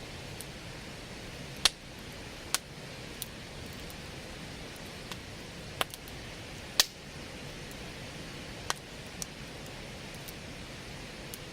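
Large logs burning in a campfire, crackling with scattered sharp pops, the two loudest about one and a half and seven seconds in, over the steady rush of a river.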